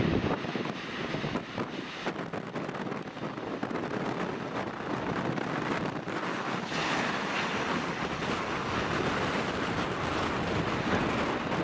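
Strong wind buffeting the microphone in uneven gusts, a rough rushing noise.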